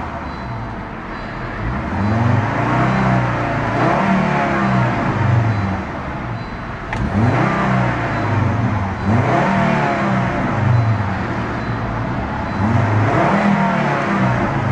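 1998 Volvo S70's inline five-cylinder engine being revved again and again, the pitch rising and falling back about every two seconds.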